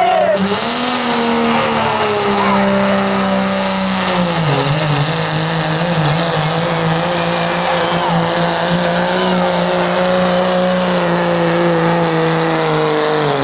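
Turbocharged diesel pickup engine pulling hard at full throttle, with a high turbo whistle climbing at the start. The engine note holds steady, sags briefly about four seconds in, then recovers, and it falls away near the end as the throttle comes off.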